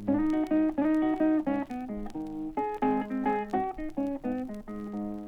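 Blues guitar fill between vocal lines: quick picked single-note licks with bent notes over a steady droning bass note.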